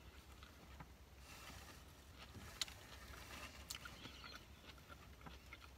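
Faint chewing of a mouthful of burger, with soft mouth and finger-licking sounds and a few small sharp clicks, over a low steady hum.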